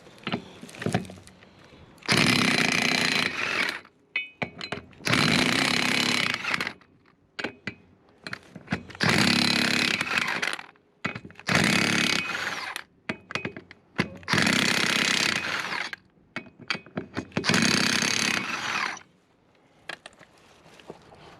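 An impact wrench hammering on bolts on a truck's front brake assembly, in six short bursts of one to two seconds, with clinks of the socket and tools between them.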